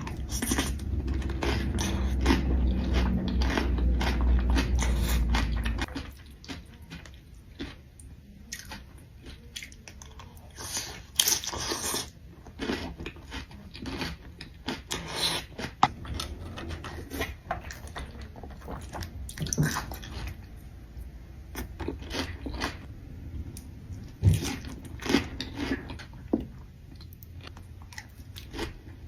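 Close-miked eating: a person biting and chewing food, with crunchy bites and wetter chewing in irregular bursts. A loud steady low hum runs under the first six seconds, then cuts off suddenly.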